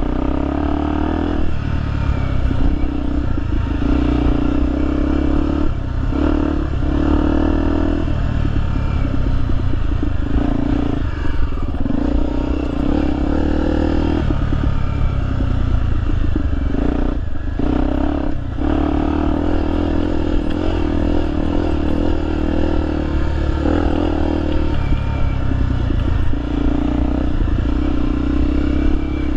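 Honda XR 250 Tornado's single-cylinder four-stroke engine running as it is ridden off-road, the revs rising and falling with the throttle and dropping off briefly several times, with rattling from the bike.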